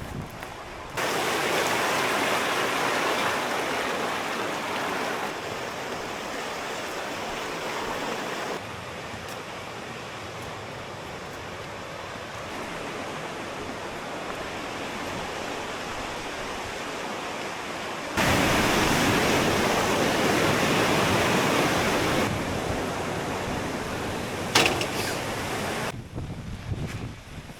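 Waterfall water rushing and splashing in a dense, steady hiss. Its level jumps up or down abruptly several times, as between separate shots of the falls.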